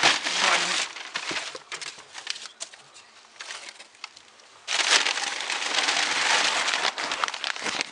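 Wood fire crackling and popping in the firebox of a newly laid brick sauna stove, with scattered sharp snaps; about five seconds in it turns suddenly louder into dense crackling and hiss.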